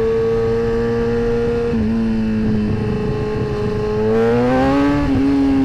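Sport bike engine running at steady cruising revs, pretty smooth, with a rush of wind underneath. The revs ease off slightly about two seconds in, then climb as the bike accelerates about four seconds in, and hold at the higher pitch.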